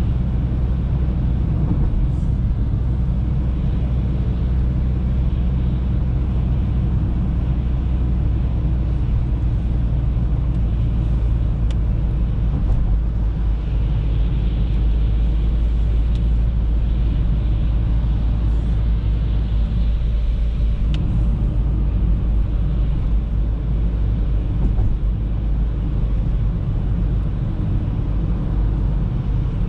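Audi A3 driving, with a steady engine and road rumble; a hiss swells for a few seconds in the middle.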